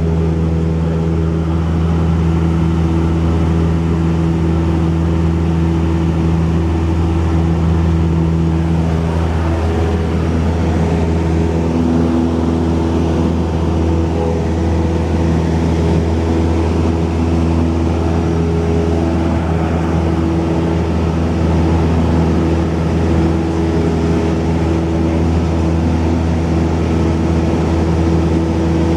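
Cessna 172's piston engine and propeller droning steadily in flight, heard from inside the cabin, with an even pitch throughout.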